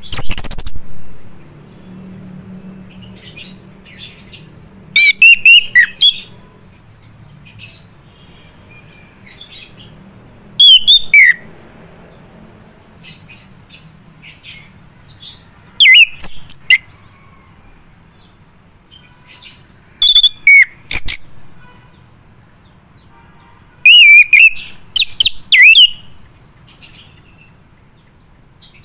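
Male chestnut-capped thrush singing: short, loud, rapid warbling phrases that sweep up and down in pitch, repeated about every five seconds with short pauses between.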